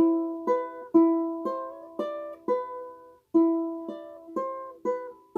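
Solo ukulele playing a slow minor melody as single plucked notes, roughly two notes a second, each left to ring and fade, with a brief pause a little past the middle.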